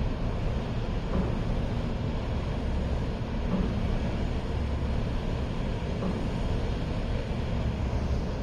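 Steady low rumble in a station rail yard as a diesel passenger train approaches slowly in the distance.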